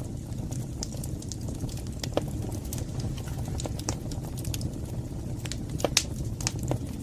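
Wood fire burning in a fireplace: a steady low rumble of flames with irregular sharp crackles and pops, the loudest pops about six seconds in.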